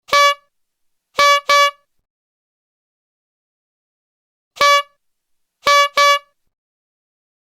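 Horn beeping in a repeating pattern: one short beep, then a quick double beep about a second later. The same single-then-double pattern comes again about four and a half seconds in, with dead silence between the beeps.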